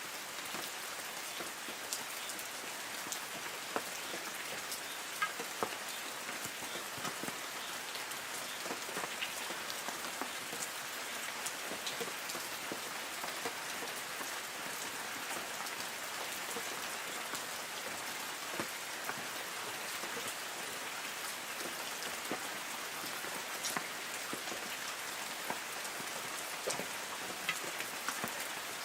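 Light rain falling on forest trees: a steady hiss of rain with many separate drops ticking irregularly on leaves.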